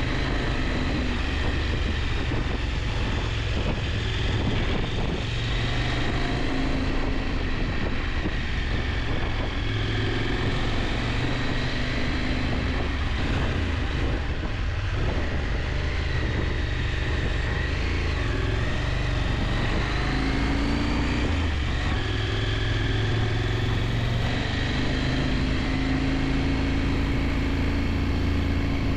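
KTM 890 Adventure's parallel-twin engine running under way, its pitch rising and falling with the throttle, over a steady rush of wind noise.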